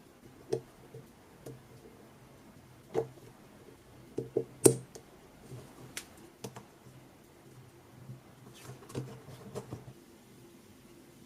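Irregular clicks and knocks from small hard parts being handled, the loudest a sharp knock about four and a half seconds in.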